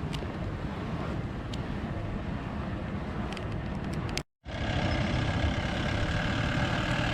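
Wind rumbling across the microphone. After a brief cut partway through, a jeep's engine is heard running with a steady hum.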